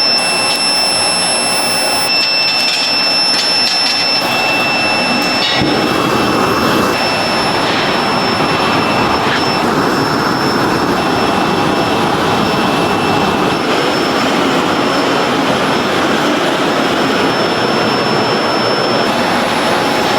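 Loud, steady rushing noise of a factory machine with a thin high whine over it, growing fuller and deeper about five and a half seconds in.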